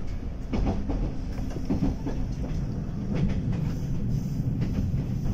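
JNR 185 series electric train running, heard from inside the passenger car: a steady low rumble with the wheels clicking irregularly over rail joints.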